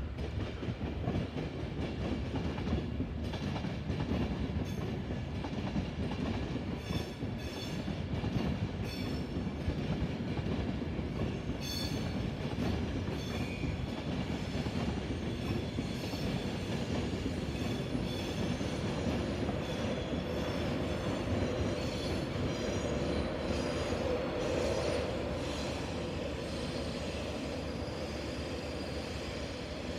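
Passenger train running through a station: a steady rumble of wheels on rail, with a run of clicks over rail joints in the first half and a steadier tone building later on.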